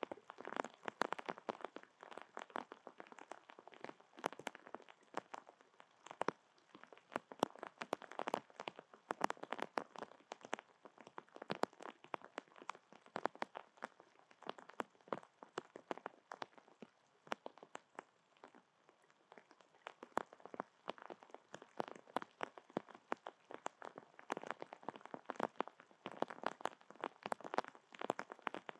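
Rain pattering close to the microphone: a dense, irregular run of sharp drip taps, heavier in some stretches than others.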